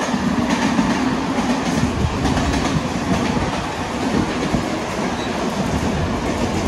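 Mumbai suburban electric local train running along the track, heard from on board: a steady rumble of wheels on rail with the clickety-clack of the wheels passing rail joints, the clicks most frequent in the first half.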